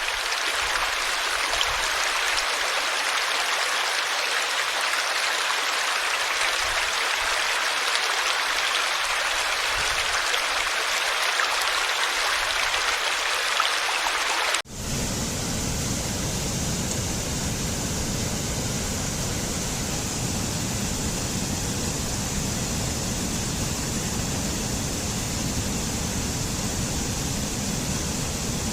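Running water in a steady rush. About halfway through it cuts abruptly to a different water recording with a deeper rumble.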